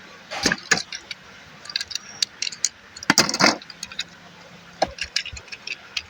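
Hard plastic parts of a transforming robot toy clicking and clattering as they are handled, in irregular sharp clicks with two louder clusters, about half a second in and around three seconds in.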